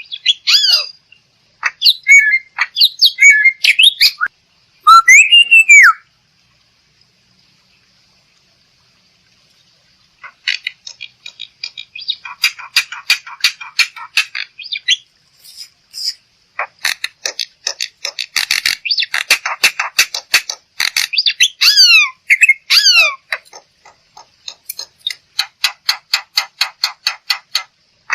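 Black-winged myna (jalak putih) calling: loud harsh whistles and squawks mixed with fast rattling chatter. The calling stops for about four seconds after the first six seconds, then resumes as a dense run of rattles with sliding whistles.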